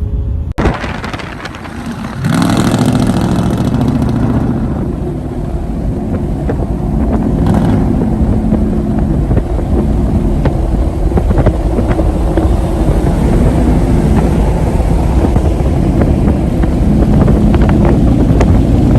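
Loud pickup truck engine and exhaust running close by, with a deep rumble; the engine sound comes up strongly about two seconds in and stays loud.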